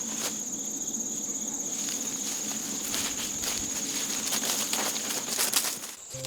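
Insects trilling steadily in one high, unbroken tone, with scattered light clicks and rustles over it; a louder run of clicks comes near the end before the sound drops away.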